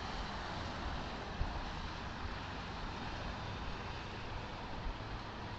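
Steady driving noise of a car on the road, engine and tyre rumble, with two brief knocks, one about a second and a half in and a smaller one near the end.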